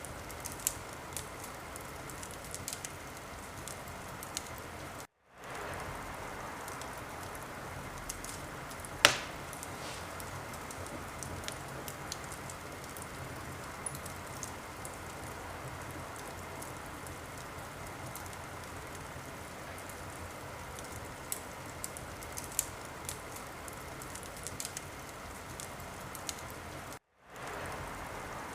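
Wood fire in a fireplace crackling, a steady hiss with frequent small crackles and one loud pop about nine seconds in. The sound drops out for a moment twice.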